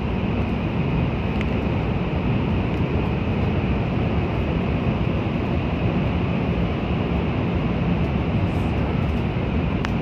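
Steady low rumble and rushing air noise inside a Shinkansen bullet-train passenger car as the train runs along.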